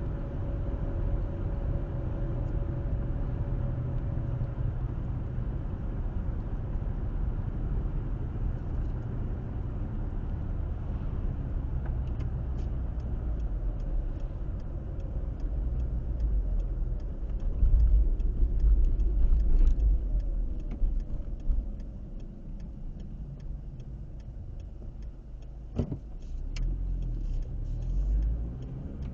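Car driving, heard from the dashcam inside: a steady low rumble of tyres and engine, growing louder for a few seconds past the middle, with a single sharp knock near the end.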